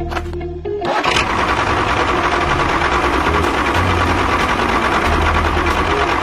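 A small motor starts about a second in and runs with a steady buzzing whir, over background music.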